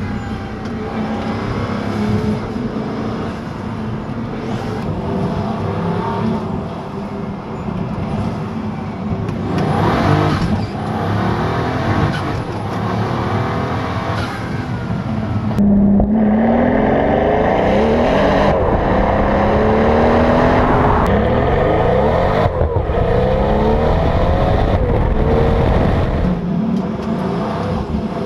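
Supercar engine and exhaust under hard acceleration. From about halfway it is louder, its pitch climbing and dropping back again and again with each upshift.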